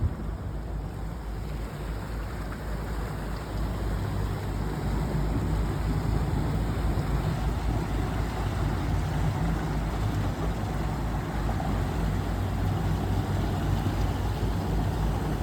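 Boat engine running steadily under load while towing a barge, a low drone mixed with rushing water and wind noise; it gets a little louder about four seconds in.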